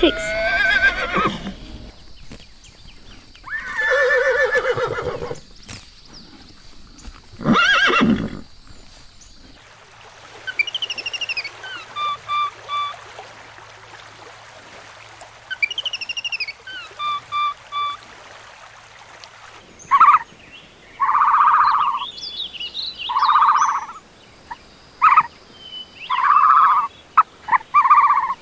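A string of different animal calls: two long pitched calls in the first nine seconds, then repeated high chirping, then a run of short repeated calls from about twenty seconds in.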